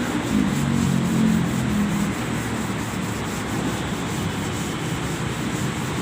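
Sanding on car bodywork, with an even stroke rhythm of about four a second. A low pitched hum sits under it for the first two seconds.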